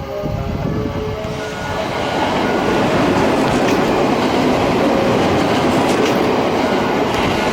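A JR West Kounotori limited express electric train passing through the station at speed without stopping. The rush of wheel and rail noise builds over the first two seconds and stays loud.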